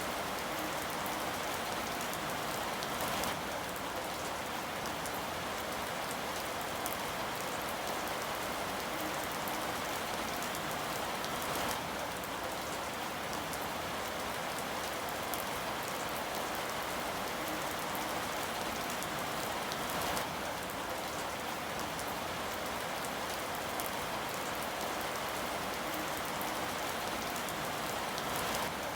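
Steady rain falling, an even hiss with many small drop ticks, a few brief swells in loudness along the way.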